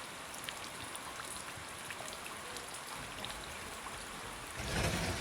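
Steady hiss of water with scattered faint ticks, like rain or floodwater in a flooded street; a louder low rumble joins near the end.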